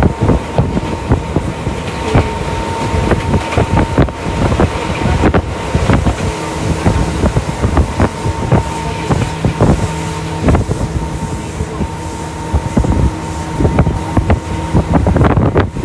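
Tokyu Toyoko Line electric commuter train running at steady speed: a constant rumble with wheels knocking irregularly over the rails, under a steady hum and whine of the traction motors.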